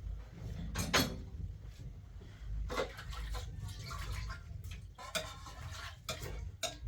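Water splashing and dripping, with scattered knocks and clatter, in a small room.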